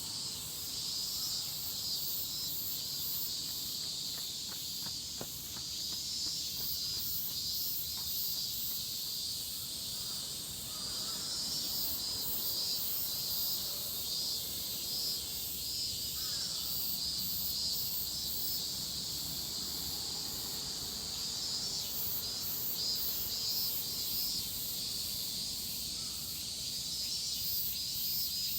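Chorus of cicadas shrilling continuously in midsummer, a steady high-pitched buzz with a slight pulsing texture.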